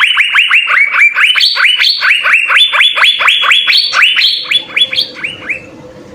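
Asian fairy-bluebird (cucak biru) singing a fast run of sharp, upward-sweeping notes, about five a second, that stops shortly before the end.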